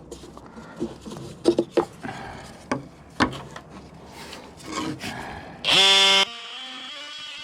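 Wooden board rubbing, scraping and knocking against a wooden hive bottom board as it is worked into its slot. About six seconds in, a loud, short, evenly pitched buzz sounds, then goes on more quietly and steadily.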